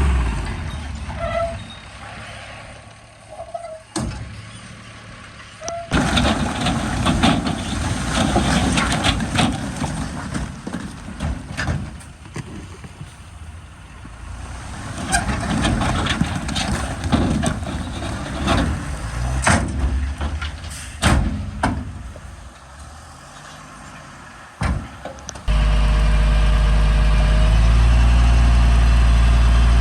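Heavy diesel earthmoving machinery at work: engines rumbling under long stretches of rattling, scraping noise with sharp knocks. Near the end a loud, steady diesel engine cuts in abruptly.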